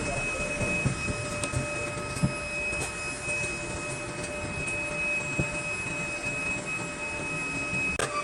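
Workshop machinery running steadily with a thin high whine, with scattered light clicks and knocks.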